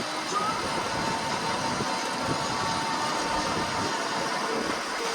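Fishing boat's engine running steadily under a constant hiss, with a faint steady tone.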